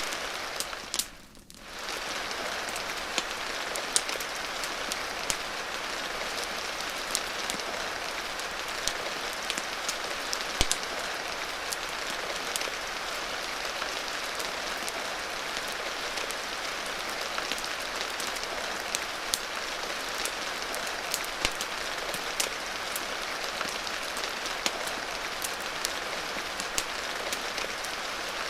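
Steady rain ambience, a continuous even hiss, with many scattered sharp clicks. About a second in the sound briefly drops away and fades back in, like a loop join.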